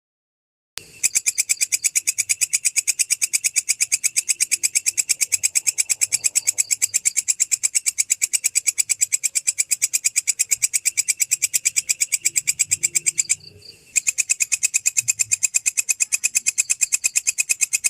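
A singing insect, cricket or katydid, calling in a fast, even train of high chirp pulses. It starts about a second in, stops for about half a second near the end and starts again.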